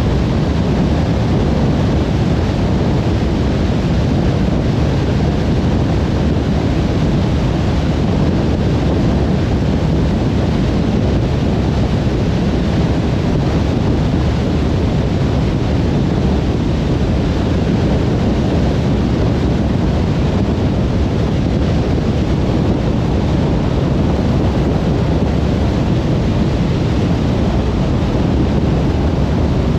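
Car driving at motorway speed: a steady, unchanging road rumble of tyres and wind, heaviest in the low end.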